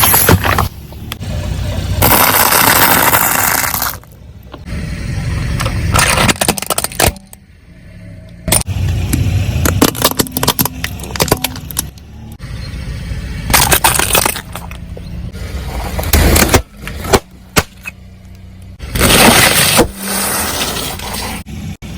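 A car rolling over objects and crushing them under its tyres, with repeated sharp cracks, crunches and bursts over the low running of the engine. The sections start and stop abruptly.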